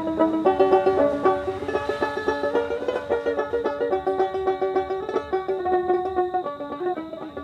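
Dotara, the Bengali fretless plucked lute, playing a quick melody of short plucked notes with a bright, banjo-like twang.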